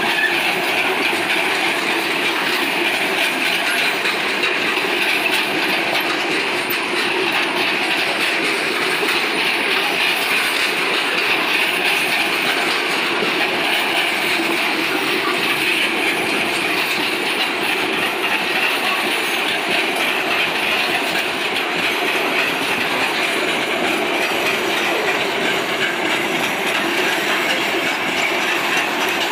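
Loaded freight-train hopper wagons rolling past, with steady, unbroken wheel-on-rail noise.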